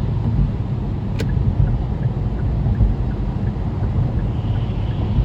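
Road and tyre noise with engine hum inside a car driving at highway speed, a steady low rumble. A single sharp click sounds about a second in.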